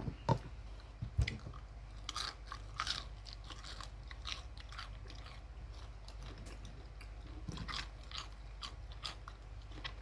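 Crisp crunching and chewing of homemade fried chicken, in irregular crackles, with a couple of sharp knocks in the first second or so.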